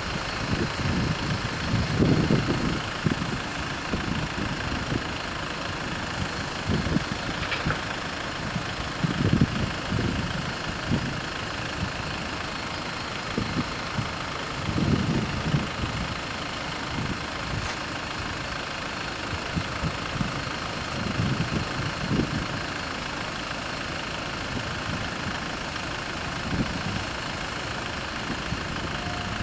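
A vehicle engine idling steadily, with irregular low rumbles rising over it every few seconds.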